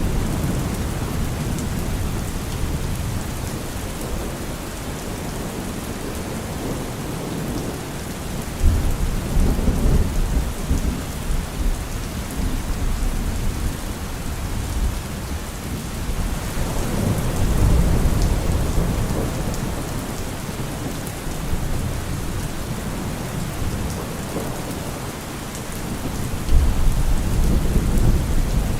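Heavy rain drumming steadily on a car roof, with deep thunder rumbling up three times, about eight seconds apart.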